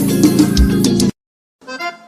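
Live forró band music with accordion over bass and drums, cutting off abruptly about halfway through; after a half-second of dead silence the music comes back in quietly.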